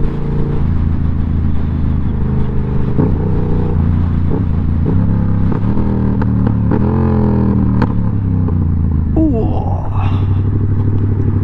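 A 2020 Yamaha MT-07's parallel-twin engine running under way through a baffle-less aftermarket full exhaust system. Its note holds steady, then rises and falls about two-thirds of the way through, and rises again near the end as the throttle changes.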